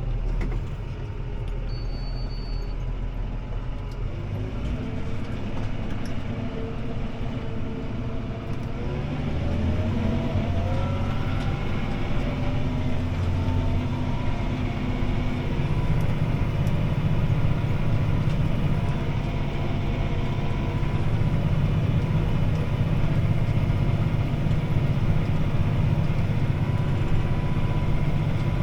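CLAAS Arion 650 tractor's six-cylinder diesel engine running under load, heard from inside the cab. A few seconds in, the engine pitch climbs, then it settles into steady, slightly louder running.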